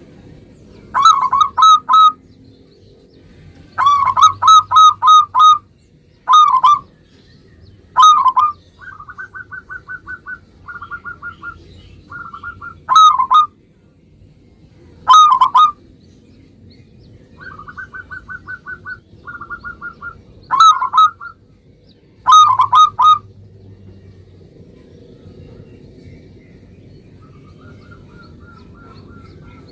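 Zebra dove (perkutut) cooing: loud, bubbling coo phrases repeated every couple of seconds, some as a single note and some as quick runs of four or five. Between them come softer, rapid trains of short even notes.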